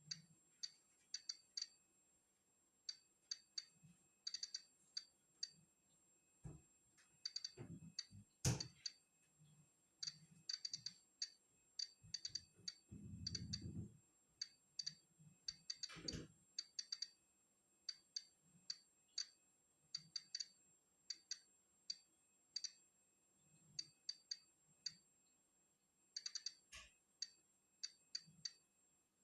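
Polon EKO-C digital Geiger counter clicking at irregular, random intervals, often several in quick succession, as it counts natural background radiation. A couple of louder knocks and a brief low rumble about halfway through.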